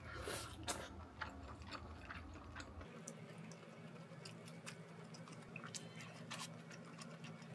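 Faint close-up eating sounds: a person chewing, with scattered small mouth clicks and soft taps.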